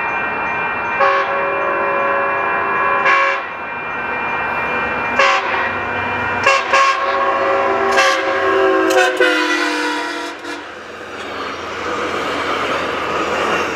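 Locomotive air horn sounding the grade-crossing signal, two long blasts, a short one and a long one, over the noise of the passing train. The last blast drops in pitch as the train goes by.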